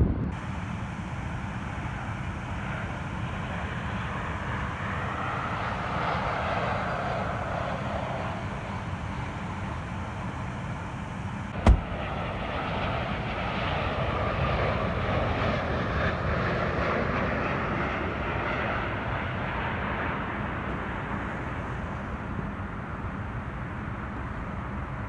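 Jet airliner passing on landing approach, its engine noise swelling and fading over a steady low rumble. A single sharp knock about halfway through.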